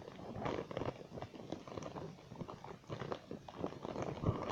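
Packaging being handled and opened by hand: irregular rustling with many small clicks and crinkles.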